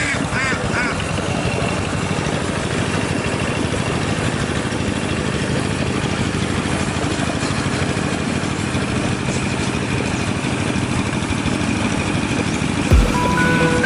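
Diesel engine of a two-wheel rice-field tractor running steadily, with a rapid, even chug. Music starts near the end.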